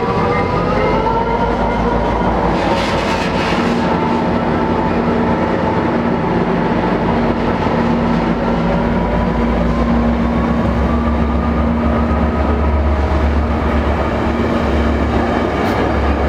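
Trinity Railway Express diesel commuter train pulling out and passing close by: a steady rumble of engine and wheels on the rails, with a high whine that dips and then rises, and a deep rumble that grows stronger in the second half as it gathers speed.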